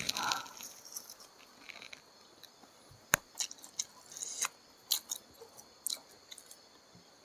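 A person chewing food close to the microphone: soft wet smacks with scattered sharp mouth clicks.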